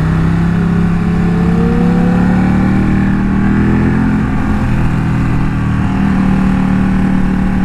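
Sport motorcycle engine pulling hard while riding, its pitch rising over the first couple of seconds and then holding steady, with wind rumble.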